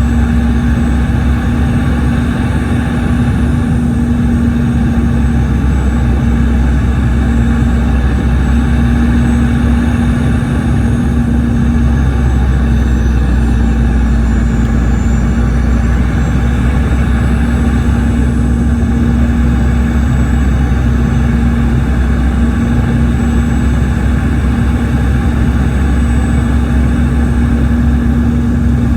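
Steady cabin drone inside the rear cabin of a Boeing 717, from its tail-mounted Rolls-Royce BR715 turbofans: a heavy low rumble with a steady hum and a faint high whine, unchanging throughout.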